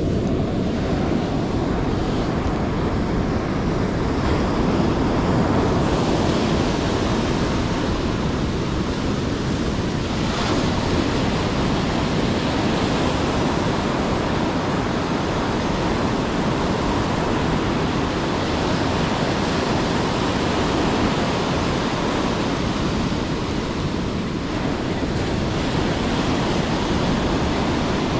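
Steady surf noise, with wind buffeting the microphone.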